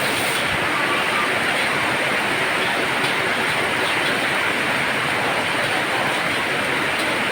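Heavy rain falling in a steady downpour, an even rushing hiss that does not let up.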